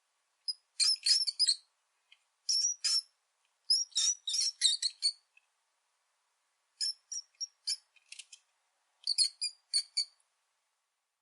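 Rat squeaking: short, high-pitched squeaks coming in quick clusters of several at a time, with brief silent pauses between the clusters.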